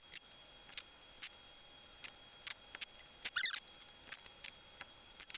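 Quiet handling noises: scattered light clicks and taps, with one brief wavering squeak about three and a half seconds in.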